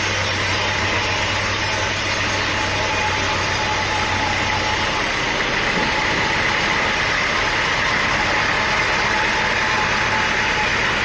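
Sawmill machinery engine running steadily: a constant, unbroken mechanical drone with a faint steady whine.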